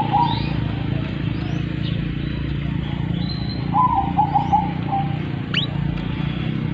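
Birds calling over a steady low hum: a quick run of about five short repeated notes near the middle, then a sharp falling chirp, with a brief high whistle just before.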